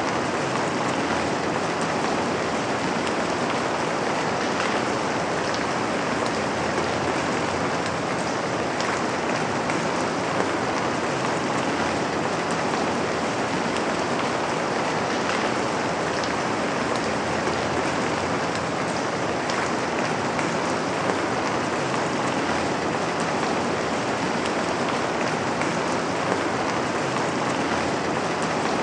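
Steady rain falling on a window: a continuous, even hiss of drops, with a few slightly louder single drop taps now and then.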